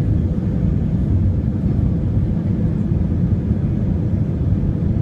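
Steady low rumble of an Airbus A319 heard from inside the cabin: engine and airflow noise, with a faint steady hum on top.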